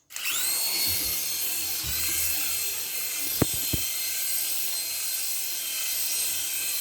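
Small toy helicopter's electric motor and rotor starting up: a high whine that rises briefly in pitch, then whirs steadily. Two short clicks about three and a half seconds in.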